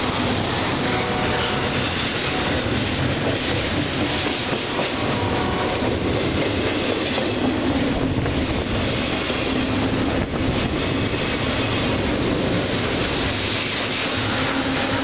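Double-stack container cars of a Union Pacific freight train passing close by at speed: a loud, steady rolling noise of steel wheels on rail, with faint steady tones in it.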